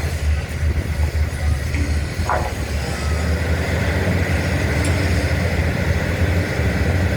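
An engine running steadily, a loud low hum with no change in speed.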